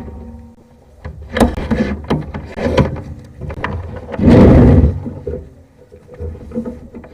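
Sewer inspection camera being pushed through a drain pipe: irregular knocks and clicks over a low rumble, with one loud scraping rush a little past halfway through.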